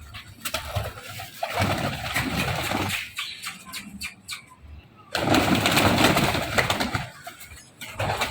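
Domestic pigeons cooing in a loft, with two longer stretches of rustling noise, the second starting about five seconds in.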